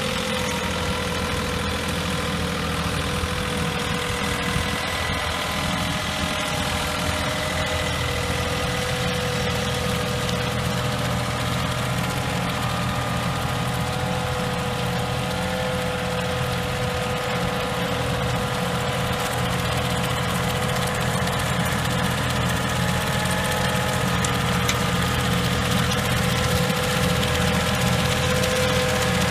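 John Deere tractor's diesel engine running steadily while pulling a mole plough, with a steady whine over the engine note; it grows slightly louder near the end.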